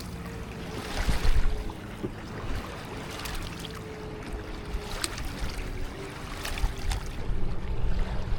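Water sloshing and splashing around a kayak, with a few sharp splashes and low rumbling gusts on the microphone, over a faint steady hum.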